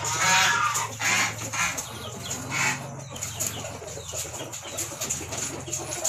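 Captive birds calling: a few clucking, fowl-like calls in the first three seconds, fainter after, over a low steady hum.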